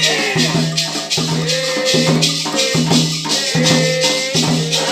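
Candomblé ritual music: a shaken rattle keeps a steady rhythm under voices singing, with repeated low strokes of percussion.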